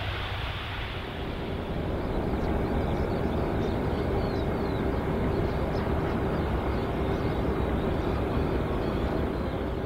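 Jet airliner engines running: a steady rushing noise with a constant hum through it, growing slightly louder about a second in.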